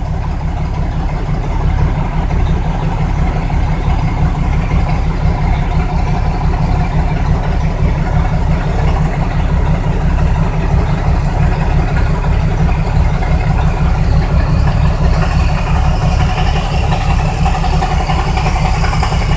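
Log truck's diesel engine idling steadily, a low, even, rhythmic chug.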